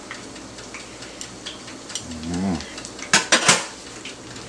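Hot oil sizzling steadily in a pot, with a quick clatter of a metal utensil against the pot about three seconds in.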